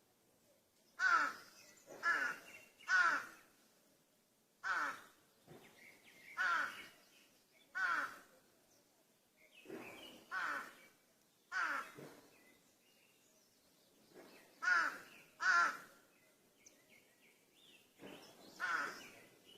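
Crows cawing: a series of about a dozen harsh, short caws, some in quick pairs, spaced irregularly a second or more apart. Fainter, more distant caws come in between.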